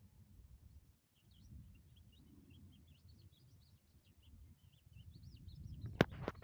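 Small birds chirping faintly in a run of quick, high, wavering twitters over a low rumble. A sharp click near the end is louder than the birds.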